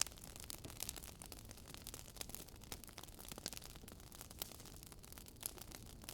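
Wood fire in a fireplace crackling: irregular small pops and snaps over a soft steady hiss.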